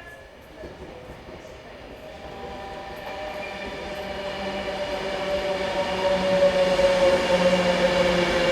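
A train approaching, growing steadily louder over several seconds with a steady whine and hum; the whine's pitch sags slightly near the end.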